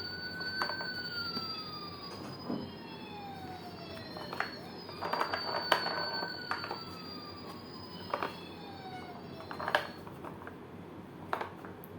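Toy ambulance's electronic siren sounding a slow wail that rises and falls in pitch, with a thin high tone above it. Scattered sharp clicks sound throughout.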